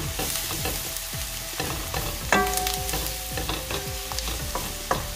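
Grated carrot, onion and celery sizzling in oil in a nonstick wok while a wooden spoon stirs, scraping and tapping against the pan. A sharper knock a little over two seconds in rings briefly.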